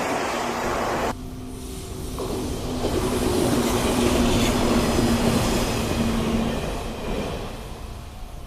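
A 485-series electric train running past, with rail and wheel noise. It grows louder to a peak in the middle and fades away near the end, after an abrupt cut about a second in.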